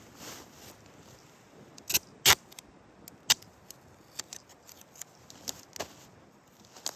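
Irregular sharp clicks and snaps over a faint steady background hiss, the loudest two close together about two seconds in.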